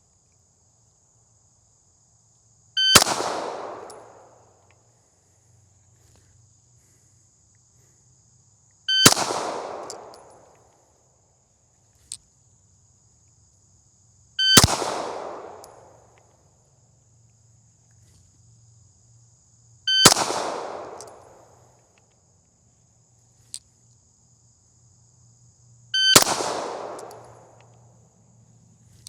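Five single pistol shots, about six seconds apart, each followed by an echoing tail. They are deliberate single shots of a one-shot return drill with a red-dot pistol.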